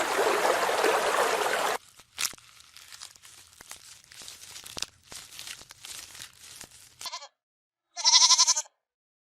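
A loud rushing noise for about two seconds, then faint crunching and rustling, then a short call and one loud, high bleat from a farm animal near the end.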